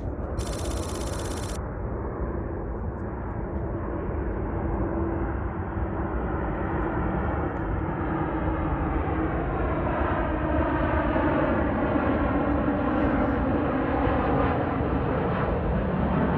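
Boeing 737 MAX 8's CFM LEAP-1B jet engines on approach: a steady jet roar that grows gradually louder, with faint whining tones sliding down in pitch in the second half. A short high-pitched tone sounds about half a second in.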